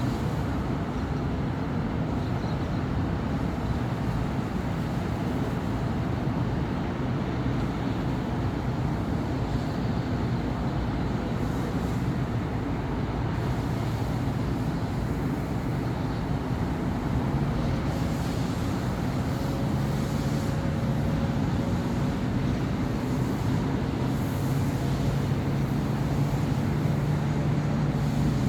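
Steady city street traffic: a continuous wash of passing car and bus engines and tyre noise. A steady low hum rises out of it in the second half.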